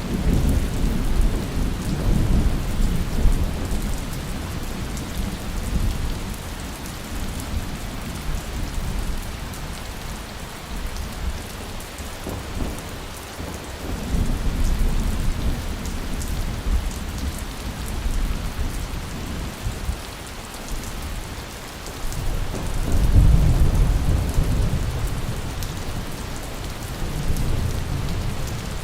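Steady rain with thunder rumbling low in the background; the rumbles swell and fade several times, loudest a little past two-thirds of the way through.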